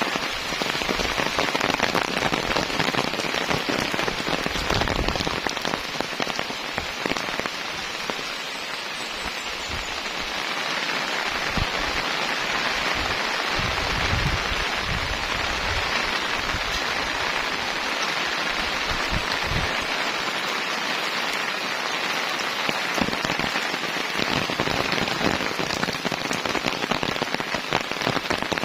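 Heavy rain falling steadily, a dense even hiss of rain, with low rumbling surges now and then.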